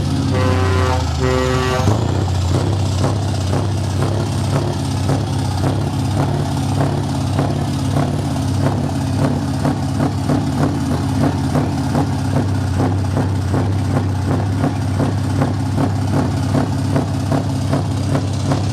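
Scania R560 V8 truck engine running through loud aftermarket exhaust pipes, a steady deep rumble with an even pulse. A pitched horn-like tone sounds for about a second and a half near the start.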